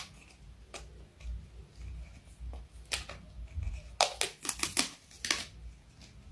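Irregular light clicks and knocks over a low rumble, with a quick cluster of them about four seconds in.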